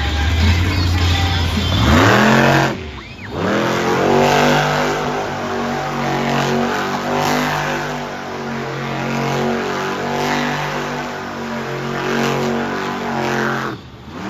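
Monster truck engine revving hard: the pitch rises sharply about two seconds in, then it is held at high revs with repeated surges and dips, dropping off near the end.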